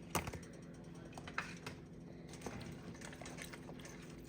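Kitchen handling sounds: one sharp knock just after the start, then light scattered clicks and taps over a steady low hum.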